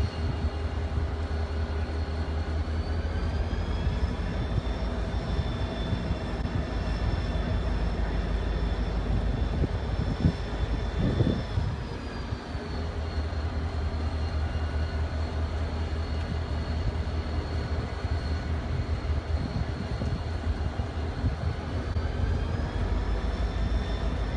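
BNSF fire train rolling slowly past while spraying water onto the trackside: a steady low rumble with a machine whine that rises in pitch a few seconds in, falls back about halfway through and rises again near the end.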